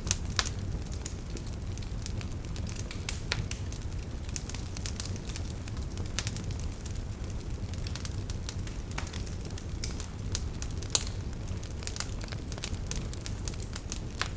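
Wood campfire burning, with irregular sharp crackles and pops of the firewood over a steady low rumble of the flames; a louder pop about eleven seconds in.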